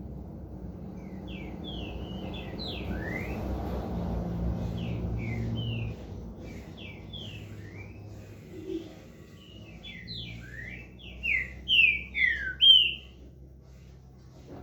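Green-winged saltator (trinca-ferro) beginning to sing: short, sliding whistled notes in loose phrases, building to a louder run of four notes near the end. A low, steady rumble underlies the first half and stops abruptly about six seconds in.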